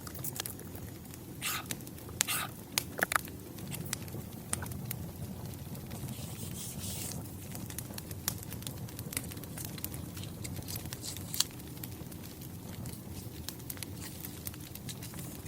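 Wood fire crackling: a steady low rumble with scattered sharp pops and snaps, a few louder ones about two to three seconds in.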